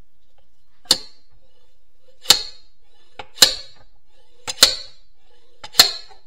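Slide-hammer puller striking five times, roughly once a second, each a sharp metallic clank with a short ring, as its weight is slammed back to pull the rear seal out of a Getrag HM290 transmission case.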